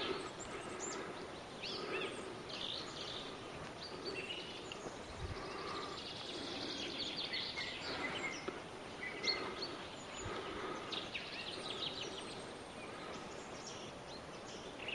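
Quiet forest ambience with small birds calling in short, scattered chirps throughout.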